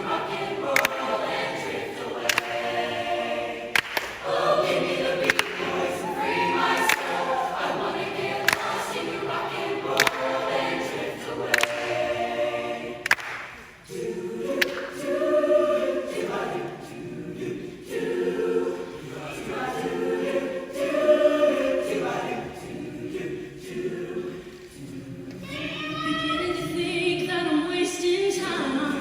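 Show choir singing in harmony over a sharp beat that falls about every second and a half. About halfway through the beat drops away and the voices hold longer chords.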